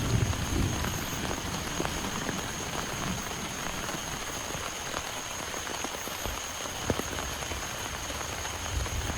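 Steady heavy rain, with individual drops ticking sharply here and there. A low rumble at the start fades within about a second.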